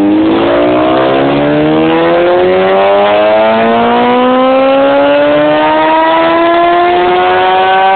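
1988 Kawasaki Ninja 750's inline-four engine in a full-throttle dyno pull, its pitch rising smoothly and steadily as the revs climb under load.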